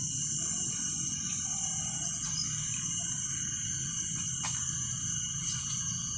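Steady evening insect chorus, a continuous high-pitched chirring over a low rumble.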